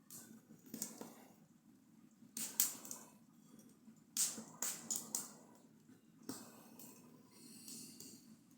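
Wood fire in a fireplace crackling, with irregular sharp pops, the loudest about two and a half and four seconds in, over a low steady rumble of the flames.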